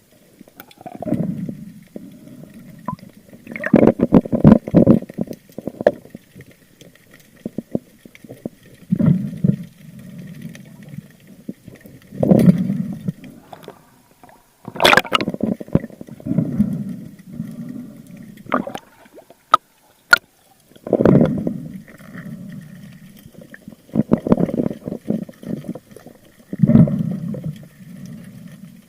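Water sloshing and gurgling around an underwater camera during spearfishing, in low surges every three to four seconds, with a few sharp clicks.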